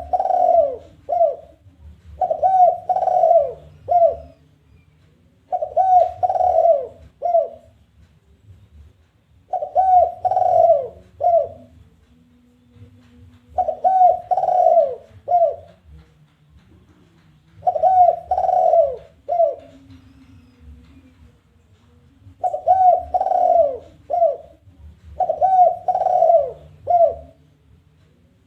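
Spotted dove (tekukur) giving its challenging call: phrases of three rolling coos and a short clipped final note, repeated about eight times, every three to four seconds.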